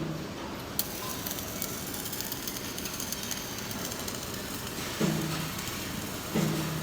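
Flux-cored arc welding on stainless steel: the arc crackles and hisses steadily, with a sharp click about a second in and two short low buzzes near the end.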